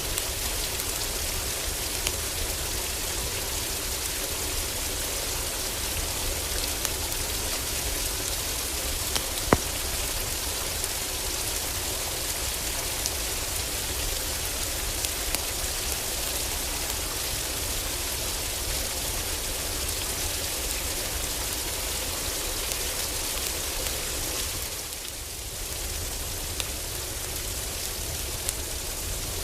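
Steady heavy rain drumming on a cabin roof, with scattered sharp crackles and pops from a wood fire, one louder snap about nine seconds in. The rain eases briefly about 25 seconds in.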